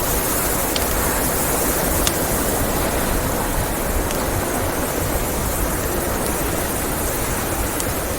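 Steady rushing blizzard wind, with a wood fire crackling over it in a few sharp, scattered pops.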